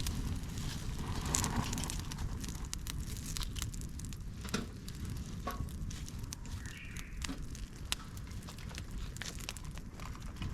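Campfire of chopped dry bamboo and twigs burning in a fire stand, crackling with irregular sharp snaps and pops over a steady low rumble.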